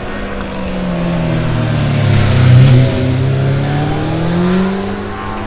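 Racing superbike passing close by at speed, its engine note falling then climbing again as the rider gets back on the throttle; loudest about halfway through.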